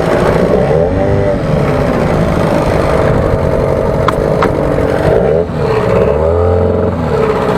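A small motor running steadily, its pitch wavering up and down, with two faint clicks about four seconds in.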